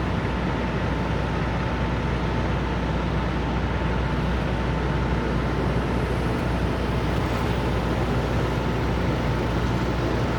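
Steady low rumble of idling truck engines, with a thin high tone held steady over it.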